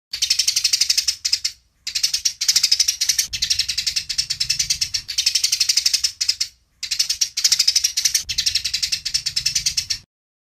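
Eurasian tree sparrows chattering in a fast run of sharp chirps, the excited fighting calls used as a training recording for songbirds. The chirps come in loud bursts of one to two seconds with short breaks between, and cut off suddenly near the end.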